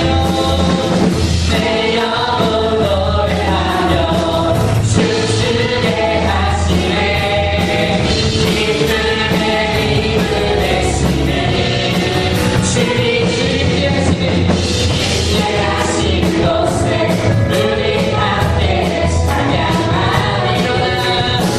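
A Christian praise band performing a worship song: group singing over a steady drum beat and bass.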